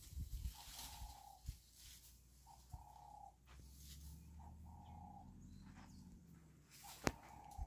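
A bird calling a short single note on one steady pitch, again and again every second or two. A faint low hum runs through the middle, and a sharp click, the loudest sound, comes near the end.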